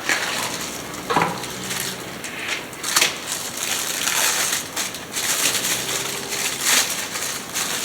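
Packing paper rustling and crumpling in irregular bursts with sharp crackles, as parts are dug out of a shipping box and unwrapped.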